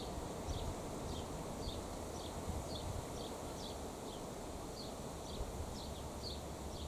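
A small bird calling, one short high note repeated about twice a second, over a steady low rumble.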